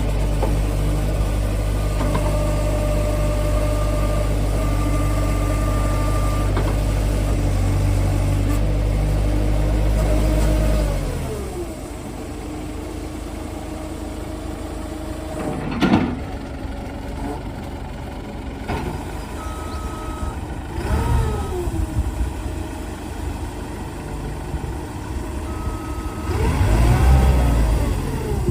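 New Holland 5380 backhoe loader's diesel engine running steadily at raised speed, then its pitch falling away as it drops back to a lower speed about eleven seconds in. A sharp knock follows. Later there are short beeps and the engine pitch rising and falling, and it pulls harder near the end.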